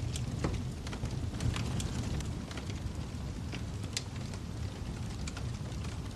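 Fireplace fire crackling: scattered sharp pops and snaps at irregular intervals over a steady low rush of burning flames.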